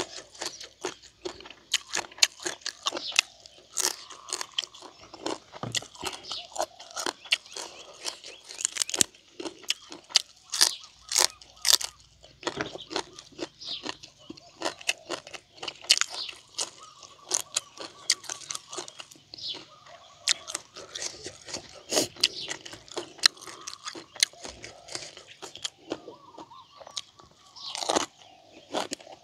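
Close-up mouth sounds of a man chewing and crunching raw fresh greens, with many quick crisp crunches and wet smacks in an irregular run.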